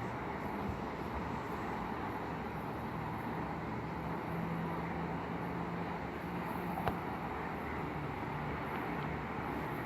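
Steady outdoor background rumble with a faint low hum, like distant traffic or an idling motor, and a single small click about seven seconds in.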